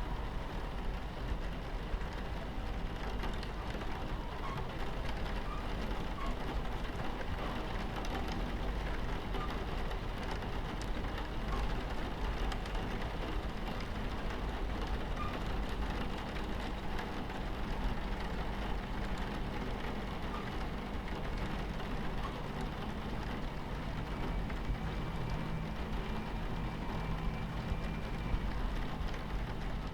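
Steady low rumble of a train running on the tracks, mixed with rain against the carriage window and faint scattered small ticks.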